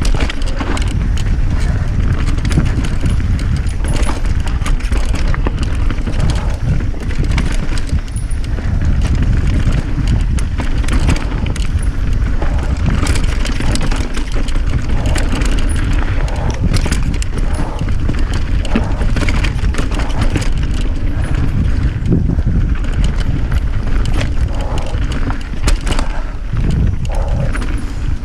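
Mountain bike ridden downhill over rough trail: loud wind rumble on the camera's microphone with tyres on dirt and a constant clatter of chain and frame rattles.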